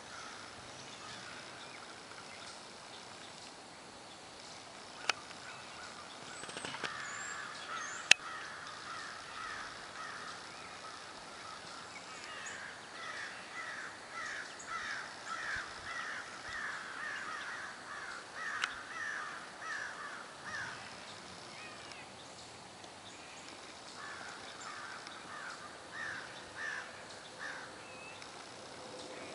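A bird calling in long runs of short repeated calls, about two to three a second, in two bouts, the second shorter. Before them come two sharp clicks, the second the loudest sound.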